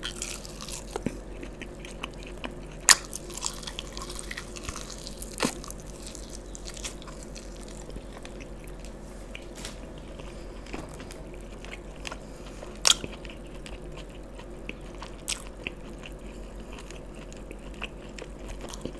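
Close-up chewing of a sauce-glazed fried chicken lollipop: a soft, steady run of small mouth clicks and crunches, with a few sharper crunchy clicks, the loudest about three seconds in and again around five and thirteen seconds.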